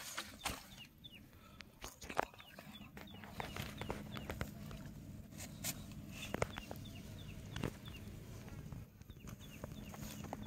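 Short, high, falling chirps repeated many times, with scattered clicks and rustles of handling in the grass. A low steady hum comes in about three seconds in.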